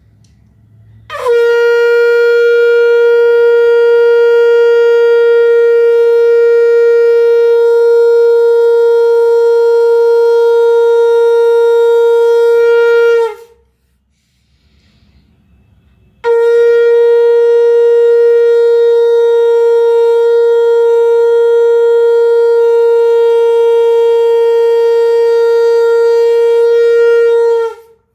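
Conch shell (shankh) blown in two long, steady blasts of about twelve seconds each, with a short pause between them. Each note holds one pitch and dips slightly as it cuts off.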